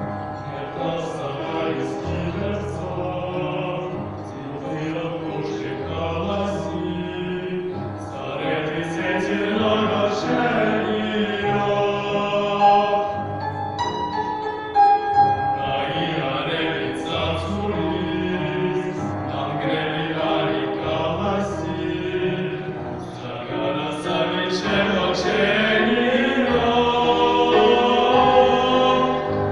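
A choir singing a song in sustained notes, with steady low accompaniment notes that change every few seconds.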